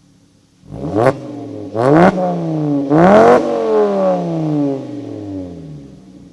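VW Rabbit MK5's 2.5-litre five-cylinder engine, through an AWE cat-back exhaust and USP test pipe, revved three times from idle: two short blips, then a longer, louder rev about three seconds in whose pitch falls slowly back toward idle.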